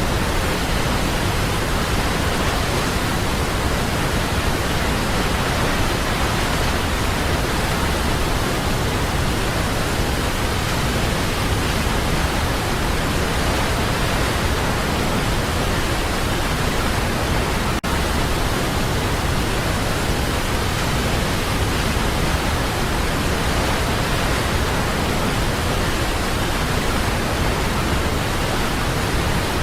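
Waterfall, a steady, dense rush of falling water with no change in level. A split-second dip in the sound comes a little past halfway through.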